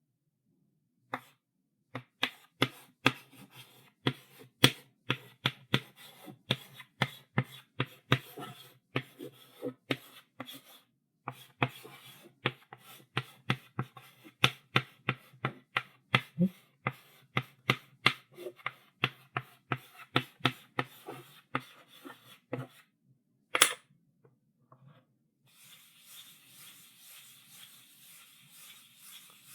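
Chalk writing on a blackboard: a quick run of short taps and strokes as the chalk strikes and drags across the board, a few a second, with one louder tap just after two thirds of the way through. Near the end this gives way to a steady scratchy rubbing of chalk against the board.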